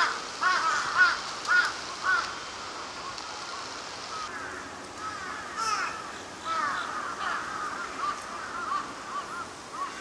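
Birds calling outdoors: short, harsh, repeated calls, a quick run of them at the start and another, overlapping run in the second half.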